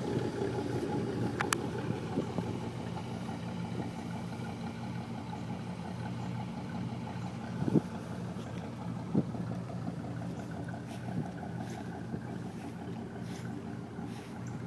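1991 Chevrolet Silverado's 4.3-litre V6 idling steadily, with two short sharp clicks a little past the middle.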